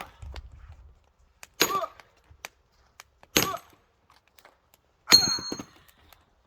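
Firewood being chopped with a metal-headed tool: three sharp blows about a second and a half to two seconds apart, each with a short metallic ring. The last blow is followed by a brief crackle of wood splitting.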